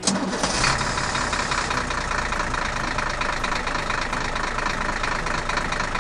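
Big tractor engine running steadily at idle, cutting in suddenly as the music stops.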